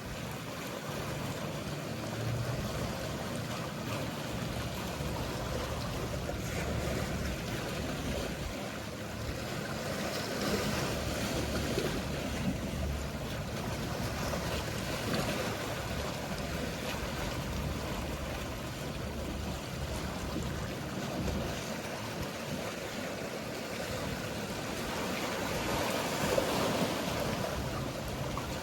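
Mediterranean sea waves washing in, swelling and easing slowly, over the low, steady hum of boat engines.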